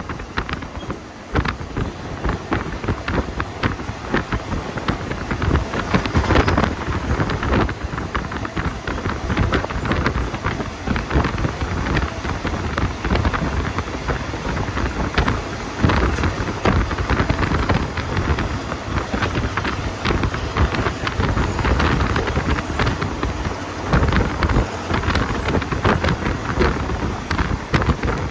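Passenger train running along the track, heard from on board: a steady low rumble with dense rattling and clatter from the wheels and carriage, mixed with wind noise.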